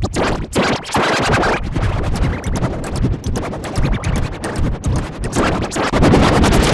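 Sparta-style remix music, heavily chopped and distorted, with rapid stuttering cuts like record scratching. About six seconds in it becomes a louder, denser wash of sound.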